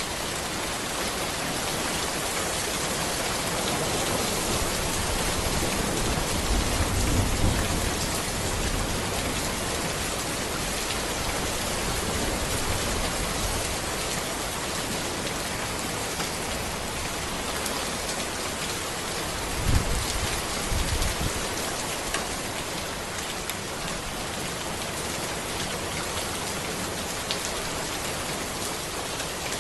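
Steady heavy rain falling on a road and the trees around it, an even hiss of many drops. Two low rumbles swell under it, one about seven seconds in and a stronger, shorter one about twenty seconds in.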